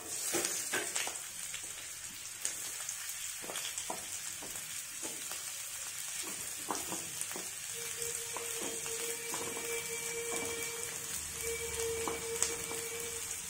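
Two onions frying in hot ghee in a kadai: a steady sizzle, with scattered clicks from stirring. A faint steady tone comes in about two-thirds of the way through, with a short break.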